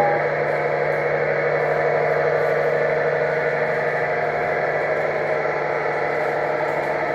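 Scale RC truck's sound module playing a steady diesel engine running sound.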